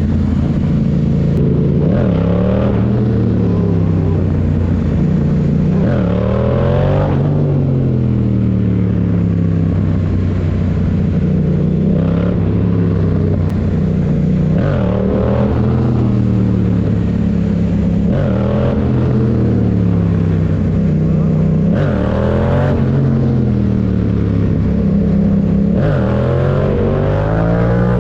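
Motorcycle engine running steadily and loudly, its pitch dipping and rising again every few seconds as the throttle and speed change.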